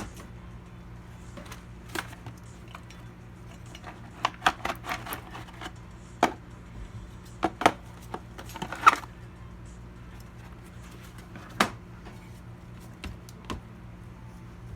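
Scattered light clicks and clacks of small hard parts being handled, bunched about four seconds in and again around eight to nine seconds, over a steady low electrical hum.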